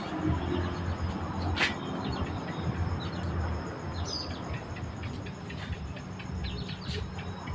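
Birds chirping in short, high calls scattered throughout, over a steady high insect-like trill and a constant low rumble.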